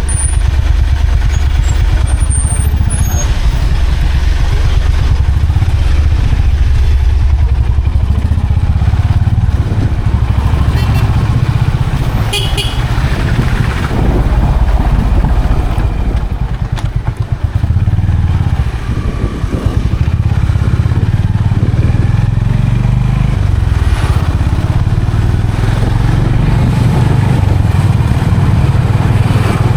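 Motorcycle engine running steadily under way on the road, with a deep, continuous drone and a brief easing off about seventeen seconds in.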